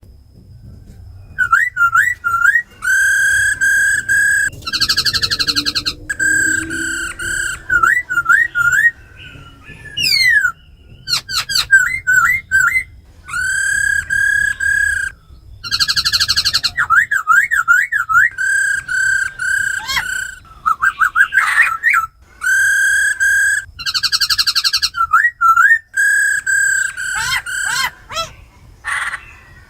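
Laughingthrush song: loud, clear whistled phrases of long level notes broken up by quick up-and-down slurs and rolling trills, repeated with short pauses between phrases.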